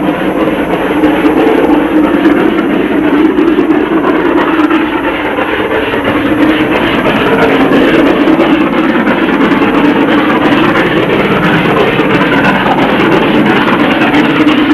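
LMS Royal Scot class steam locomotive 46115 Scots Guardsman working hard up the 1 in 75 of Shap bank. Its exhaust beats come loud and steady, with the rumble of the train behind it.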